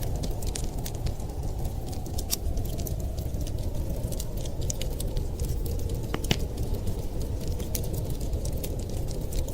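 Wood fire crackling, with sharp irregular pops and snaps several times a second over a steady low rumble of winter wind.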